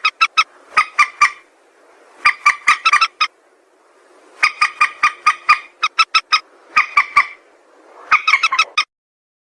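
Calls of a mandar sawah rail: bursts of short, sharp, rapidly repeated notes in groups of about four to eight, with brief pauses between groups. The calling cuts off abruptly near the end.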